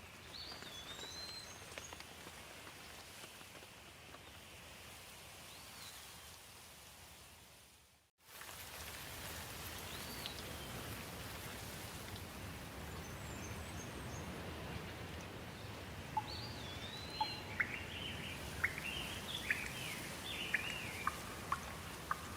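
Steady rain with birds calling. The sound fades out for a moment about eight seconds in and comes straight back, and in the last few seconds a bird sings a run of quick, sharp notes.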